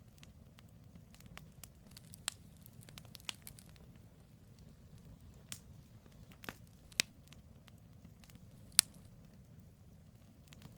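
Campfire of burning firewood logs crackling, with irregular sharp pops over a low steady rumble of the flames; the loudest pop comes near the end.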